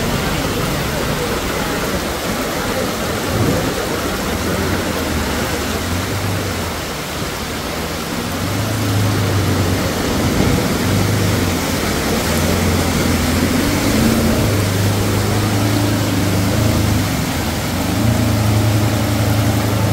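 Heavy rain and floodwater rushing, with a small pickup truck's engine running as it wades through the flooded street. The engine hum grows stronger about halfway through.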